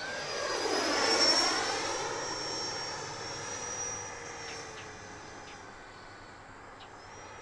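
Electric ducted-fan (EDF) RC jet, an FMS Rafale, passing close by in flight: its fan whine swells to its loudest a little over a second in, then fades away as the jet moves off.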